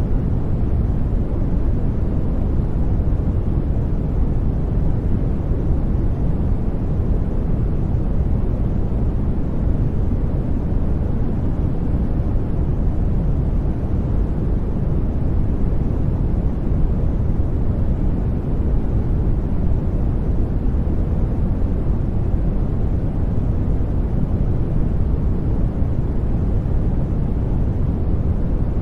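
Steady, unchanging sleep noise, deep and even, with most of its weight in the low range and little high hiss.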